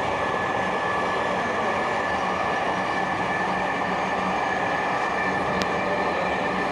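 Dhaka Metro Rail electric train running between stations, heard from inside the carriage: a steady rolling rumble with a steady whine held over it.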